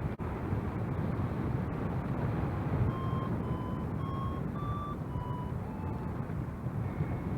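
Wind rushing over the microphone in flight under a paraglider, with a flight variometer sounding short beeps about twice a second from about three seconds in, the pitch stepping up and down from beep to beep. The beeps are the variometer's signal of weak lift.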